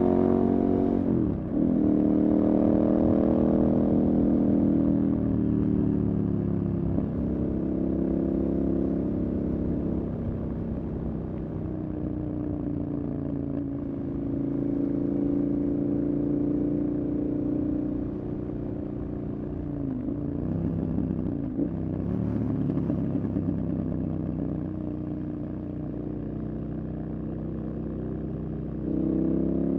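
Motorcycle engine running under way, its note rising and falling with the throttle. The note breaks briefly, once about a second in and again around twenty seconds, and climbs louder near the end.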